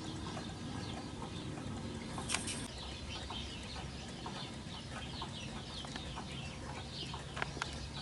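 Birds chirping, many short quick calls overlapping throughout, with a sharp click a little over two seconds in and two more near the end.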